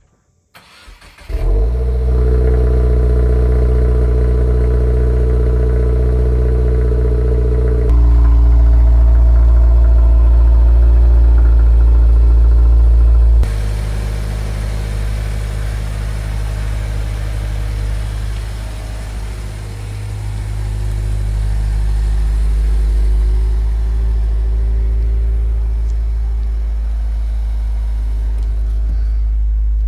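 Steady drone of a 2022 Subaru WRX's turbocharged flat-four engine with road rumble, heard from inside the cabin while cruising. It starts after about a second of near silence and changes abruptly in level and tone twice, about 8 and 13 seconds in.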